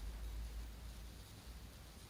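Faint room tone: a low steady hum under a soft hiss, with no distinct sound event.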